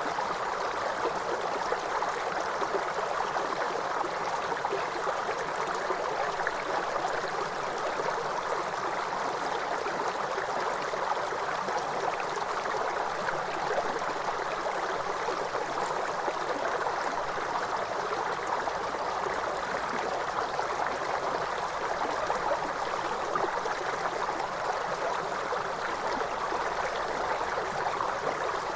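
Waterfall, water rushing and splashing in a steady, even wash with no change.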